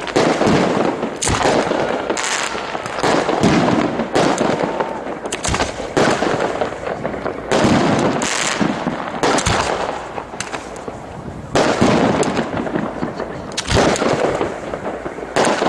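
Fireworks display: aerial shells bursting in a steady string, a sharp bang every second or two over continuous crackling.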